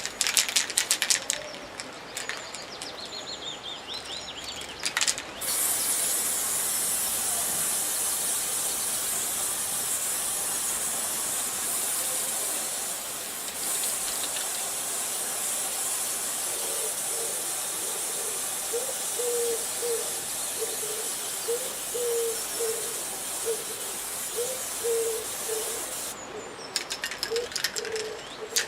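Aerosol can of white spray paint hissing in one long, steady spray of about twenty seconds, starting about five seconds in and cutting off near the end. Before and after the spray the can rattles in quick, dense clicks. A bird calls repeatedly in the background during the second half.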